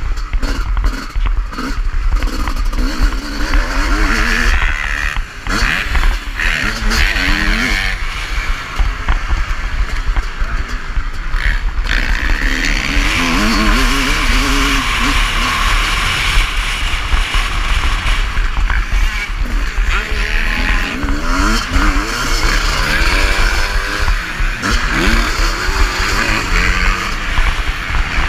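Motocross bike engine being ridden hard, revving up and dropping back again and again through the gears, over heavy wind buffeting on the action camera's microphone.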